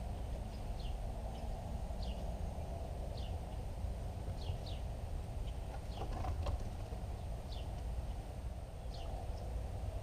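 A bird calling in short, high, downward-sliding chirps, about one a second, over a steady low outdoor rumble. A brief cluster of clicks comes just past the middle.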